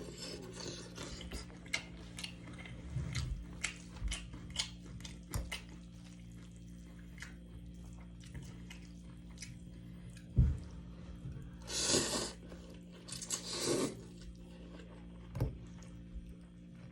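Someone eating noodles and chicken close to the microphone: chewing with many small mouth clicks over a faint steady hum. There is a single loud knock about ten seconds in, then two short hissing, rushing noises a couple of seconds apart.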